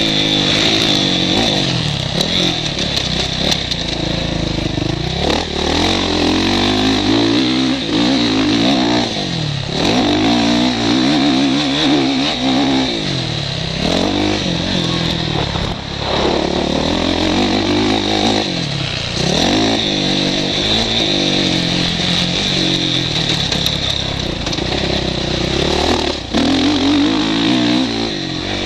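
Motocross bike engine heard from the rider's helmet camera, revving up and backing off again and again as the rider works the throttle around the track, with wind rush on the microphone.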